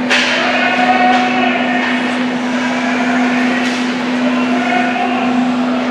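Ice hockey rink sound during play: a sharp knock right at the start and a few fainter knocks of sticks and puck, over a steady hum and indistinct voices.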